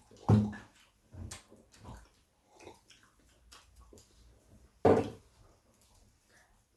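Close-up eating sounds: chewing and mouth noises from people eating pizza, in short irregular bursts. The loudest come just after the start and again about five seconds in.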